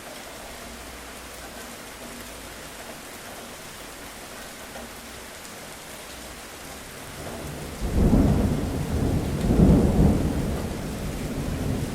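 Steady rain falling, with a roll of thunder that swells up a little past halfway, cracks loudest just before two-thirds through, rumbles on with a second peak and slowly dies away.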